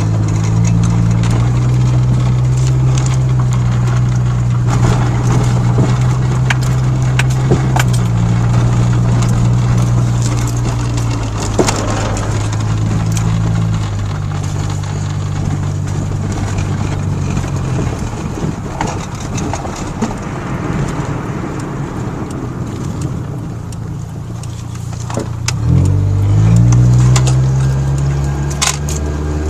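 Truck engine running steadily while driving, a low hum that fades off about two-thirds of the way through, then picks up again with a rising pitch as the truck accelerates near the end. Scattered light clicks and rattles.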